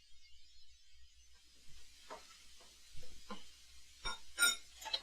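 Dishes and cutlery clinking: a run of light clinks and knocks that starts about a second and a half in, with the loudest near the end ringing briefly like glass or china.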